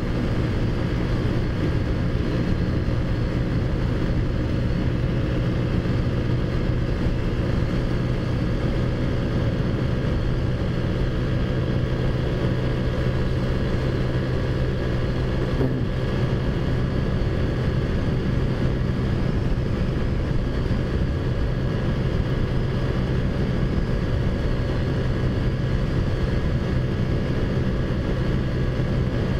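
Big-bore-kitted Taotao Zummer 50cc four-stroke scooter engine with an aftermarket exhaust, running at a steady cruising speed under way on the road. It holds an even drone throughout, with no revving up or down.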